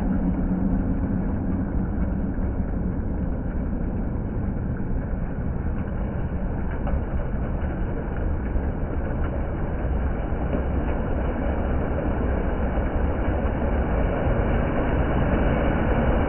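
Water fountain running, a steady rushing noise that holds even throughout.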